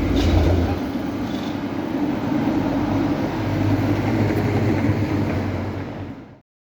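Antwerp tram running on its rails: a steady rumble with a low hum and a couple of clicks. It fades and cuts off to silence near the end.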